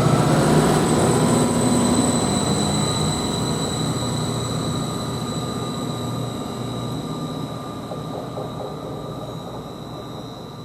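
Greater Anglia Class 755 bi-mode multiple unit pulling away and receding, its sound fading steadily, with a steady high whine running under it.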